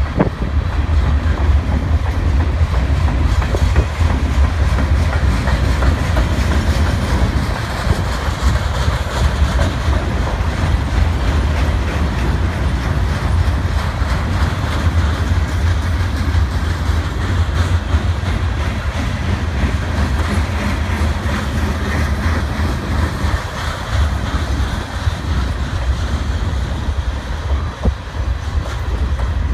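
Freight train cars (gondolas and covered hoppers) rolling past: a steady rumble of steel wheels on the rails, with repeated clicks as the wheels cross rail joints.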